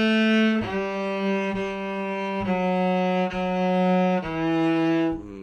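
Cello bowing slow, sustained notes that step down one at a time, an A-to-D descending exercise on the D string. The last note stops about five seconds in.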